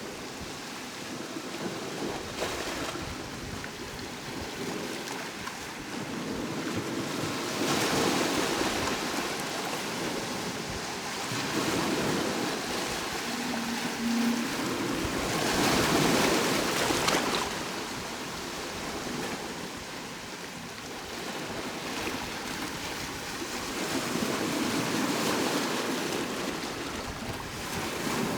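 Sea waves washing onto a shore: a steady rush of surf that swells into louder breaking surges every few seconds, strongest around the middle.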